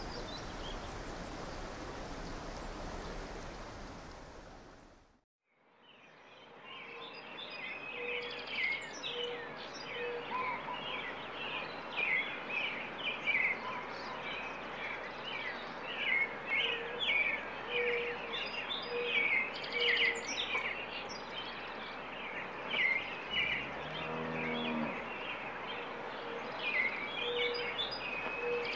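A steady hissing ambience fades out about five seconds in. After a moment of silence a countryside soundscape fades up: many small birds chirping, a low call repeated in short runs, and a cow mooing once late on.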